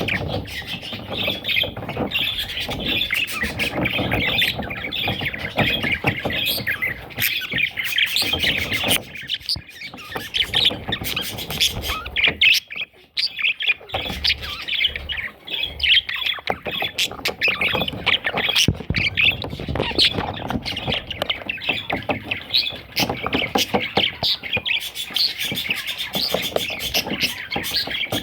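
Budgerigar warbling and chattering almost without pause, a rapid stream of squawky chirps with one brief break about halfway through.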